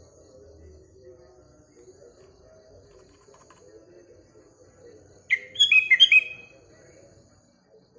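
Sooty-headed bulbul (kutilang) giving one short, loud phrase of quick falling chirps, about five seconds in, over a faint low background murmur.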